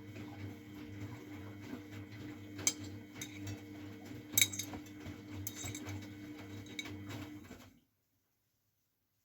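Miele Novotronic W912 washing machine running, a steady low throbbing hum from the turning drum with several sharp clinks and knocks as the load tumbles. The sound cuts off suddenly near the end.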